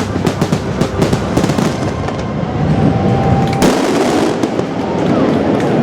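Fireworks finale: a dense, rapid barrage of shell bursts and crackle. A sharp, loud burst about three and a half seconds in is followed by crackling.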